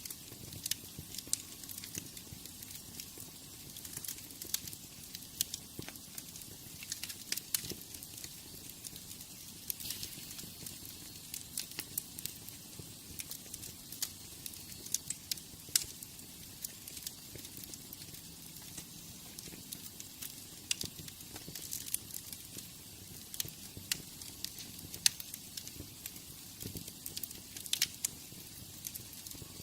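Wood fire in a fireplace crackling: irregular sharp pops and snaps over a soft low rumble of flame, a few pops much louder than the rest.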